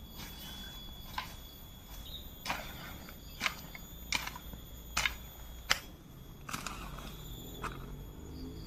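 Irregular sharp knocks and clicks, roughly one a second, over a steady high-pitched drone.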